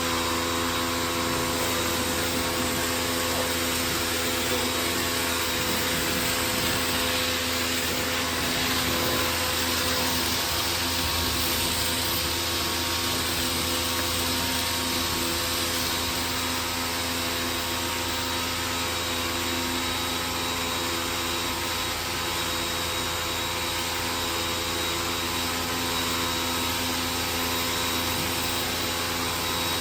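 Steady drone of a motor-driven machine running without a break: a constant hum with a hiss over it.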